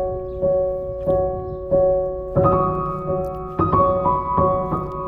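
Piano music: notes and chords struck in a steady, even pulse about every two-thirds of a second, each ringing on until the next.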